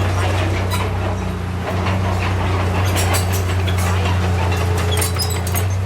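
Diesel engine of heavy earthmoving machinery running at a steady speed, with scattered metallic clanks and rattles over its hum.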